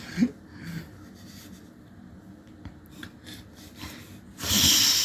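Pillowcase fabric rustling, with small scratches and taps as it is handled and clawed. Near the end comes a short, loud burst of breathy hiss.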